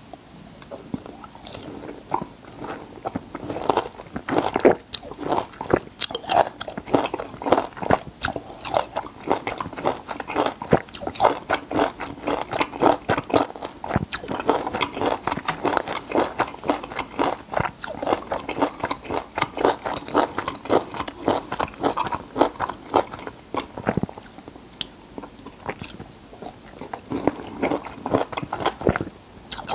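Close-miked chewing of raw peeled citrus fruit: a dense run of crunchy chewing clicks that eases briefly about 24 seconds in.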